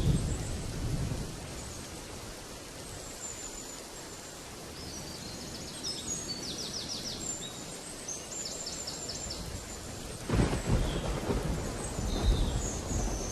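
Steady rain with rumbles of thunder: one dies away in the first second and another rolls in about ten seconds in. Birds chirp with quick high trills in between.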